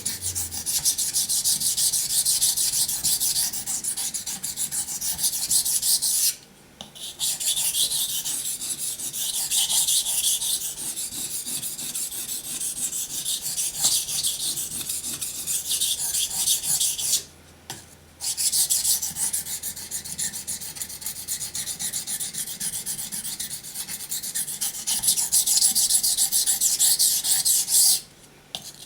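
Steel knife blade being stroked rapidly back and forth on a coarse 400-grit waterstone, a continuous gritty rasping that stops briefly three times as the blade is repositioned.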